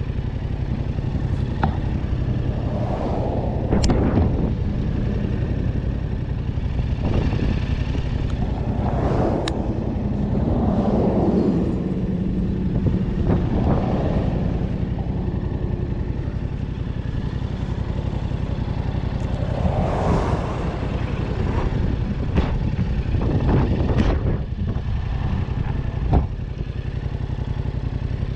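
A vehicle's engine running steadily while driving, with slow swells in pitch and level and a few sharp clicks.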